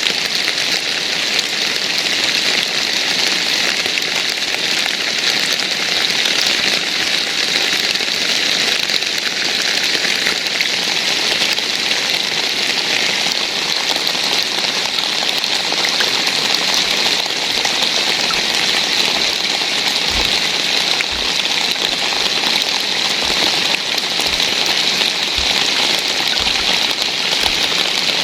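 Steady rain falling, an even hiss of many drops, with a few dull low thumps in the last third.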